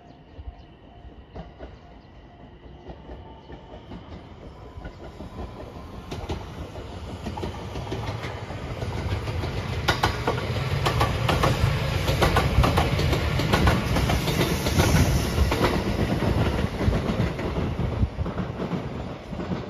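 JR West 227 series electric commuter train passing by: the run grows from faint to loud, and its wheels clack over the rail joints most loudly about halfway through. It then eases off as the train moves away.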